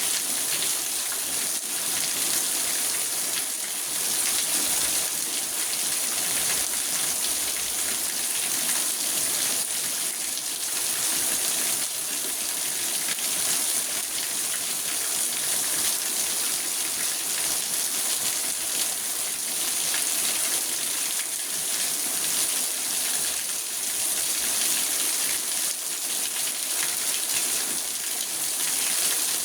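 Steady rain falling on a car's roof and windows, heard from inside the car: a dense, even patter with a strong hiss.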